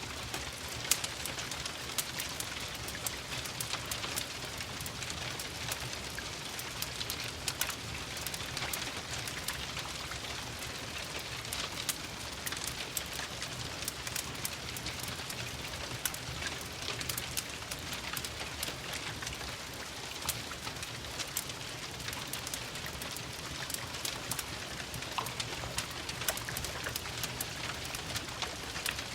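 Steady rain mixed with a crackling wood fire: an even hiss dotted with frequent sharp clicks and pops, over a soft low rumble.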